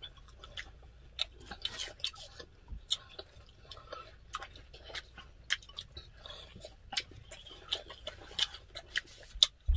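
Close-up chewing and mouth noises of people eating fried rice, a string of small wet smacks and sharp clicks at an uneven pace.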